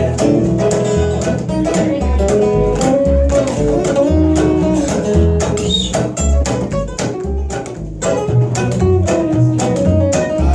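Acoustic band playing an instrumental passage between sung lines: strummed acoustic guitar over a steady line of low bass notes.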